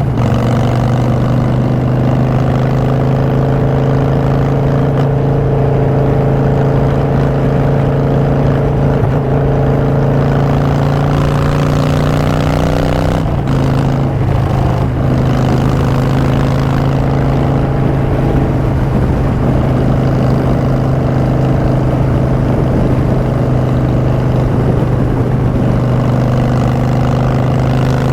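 Harley-Davidson Street Bob's Twin Cam V-twin running through Vance & Hines Short Shots exhaust at a steady cruise. There is a brief dip about 13 seconds in, after which the engine settles at a slightly lower, steady pitch.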